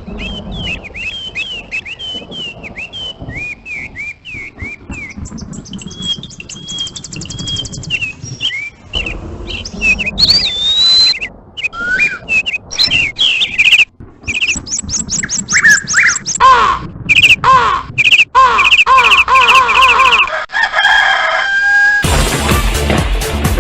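Birds calling: series of short, high chirps early on, then louder runs of rapidly repeated, sweeping call notes over the second half.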